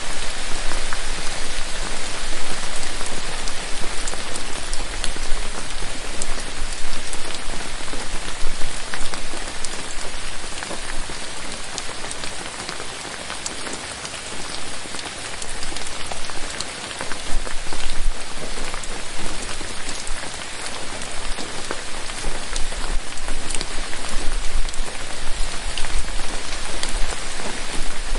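Steady rain falling on forest foliage, a dense hiss with many distinct drops pattering on leaves, easing a little around the middle before building again.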